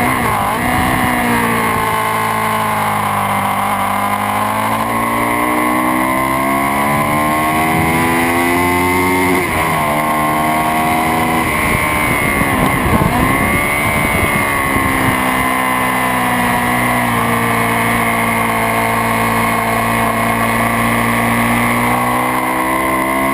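Sport motorcycle engine running hard at high revs, its pitch climbing and falling as it accelerates and shifts, with quick drops in pitch about ten seconds in and again a few seconds later.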